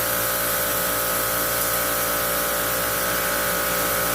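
Kärcher electric pressure washer, its motor and pump running, a steady hum with a hiss. It runs smoothly after repair, without the motor noise and the leak it came in with.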